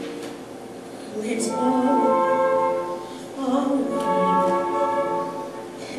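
A woman singing a slow musical-theatre ballad line in long held notes, with soft instrumental accompaniment. There are two sung phrases, the second starting a little after the middle.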